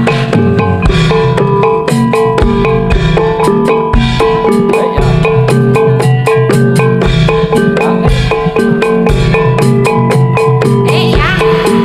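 Loud amplified jaranan music in gamelan style: rapid hand-drum strokes over repeating patterns of ringing metallophones.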